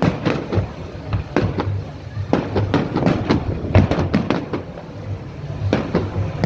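Fireworks going off in a rapid barrage: a quick run of sharp bangs and cracks, a dozen or more, over a low continuous rumble.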